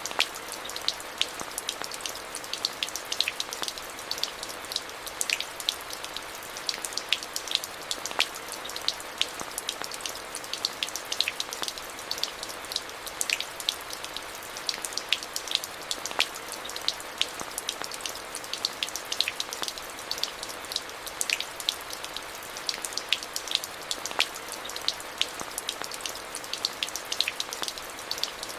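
Steady rain falling, with a constant hiss and many separate, sharp drop strikes on a hard surface close by.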